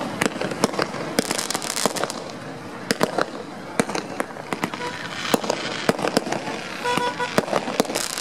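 Fireworks display: a rapid, irregular string of sharp bangs from bursting aerial shells, with a dense patch of crackling about a second in.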